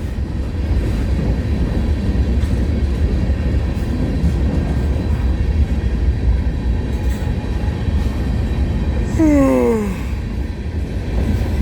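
CN freight train rolling past with a steady low rumble. About nine seconds in, a short tone drops in pitch.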